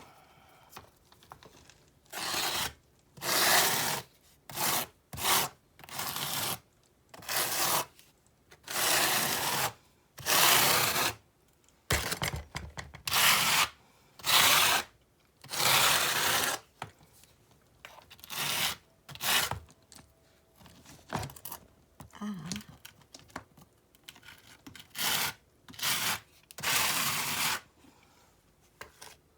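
Repeated rasping scrapes of a tool working mortar against river rock, in about twenty irregular strokes of under a second to about a second each.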